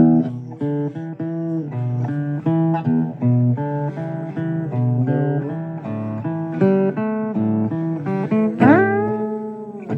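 Blues guitar playing an instrumental passage between sung lines: picked notes and chords, with a quick upward slide near the end.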